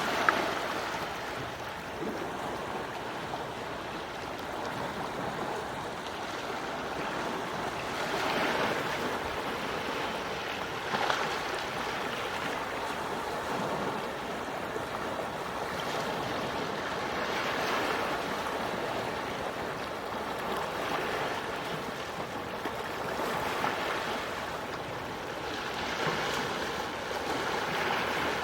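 Quiet sea waves washing onto the shore: a steady wash of surf that swells softly every few seconds as each small wave breaks.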